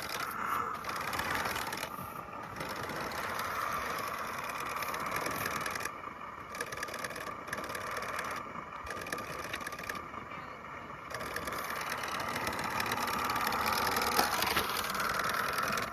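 Small electric motor and gears of a toy remote-control monster truck whirring, with short dips several times as the drive cuts in and out.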